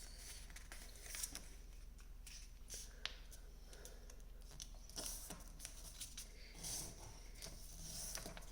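A square sheet of paper being folded edge to edge and creased by hand: faint, scattered rustles and crinkles, with a few sharper crackles.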